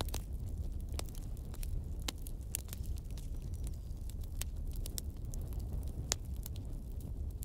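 Wood fire crackling: irregular sharp pops and snaps, one louder pop about six seconds in, over a steady low rumble.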